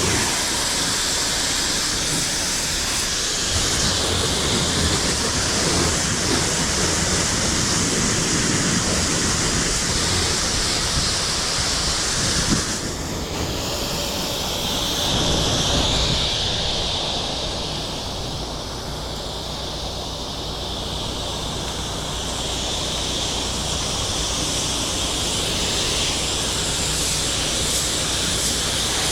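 Pressure washer spraying a surface: a steady hiss of high-pressure water over the constant low hum of the machine's pump motor. About halfway through the spray sound breaks sharply and then changes tone, dipping in level for a few seconds before steadying again.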